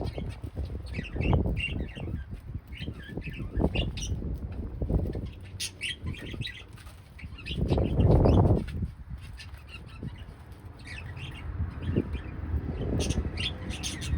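Small pet cage birds chirping with many short, high chirps, over several bursts of wing flapping. The loudest flapping comes about eight seconds in.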